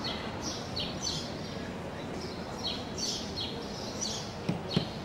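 Small birds chirping repeatedly, several short falling calls a second, over steady background noise. Two sharp knocks close together near the end are the loudest sounds.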